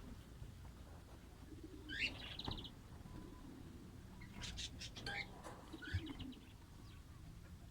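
Fischer's lovebirds chirping: short rising chirps mixed with quick chattering calls, in two clusters, about two seconds in and again past the middle.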